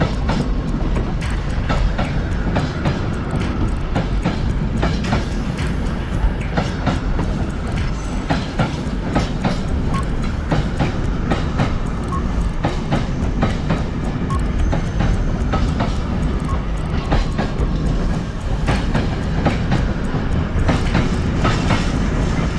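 Moving train running along the track: a steady rumble of the cars with many sharp clicks of the wheels over the rails.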